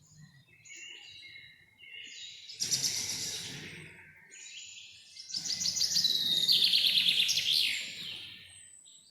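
Songbirds singing and calling: soft chirps at first, then two loud bursts of rapid trilled song, the second and longer one about five seconds in.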